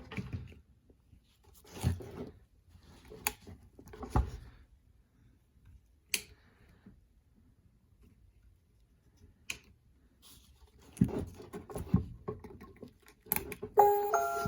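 Scattered knocks, clicks and rustles of something being handled, with quiet gaps between them. A chiming tune of bright stepped notes starts near the end.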